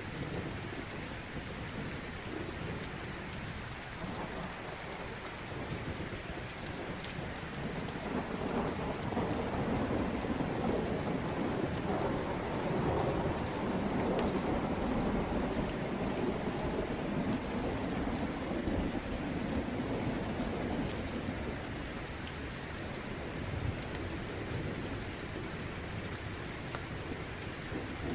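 Steady rain with a low rumble of thunder that swells about eight seconds in and fades away by about twenty seconds, and scattered sharp crackles over it.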